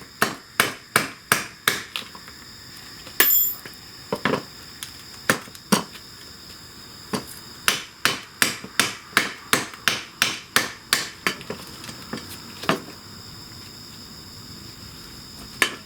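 A hammer strikes a part on a motorcycle's shift linkage, driving it into place. The blows are sharp and come in quick runs of about three a second, broken by pauses, then a few stray single blows near the end.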